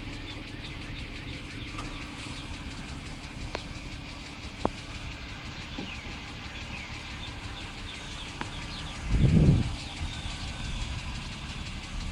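2007 BMW X3 engine idling steadily after warming up, with its ticking noise eased a little. A brief louder low rumble comes about nine seconds in.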